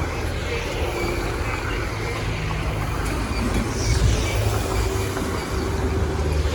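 Steady rumble of passing vehicles.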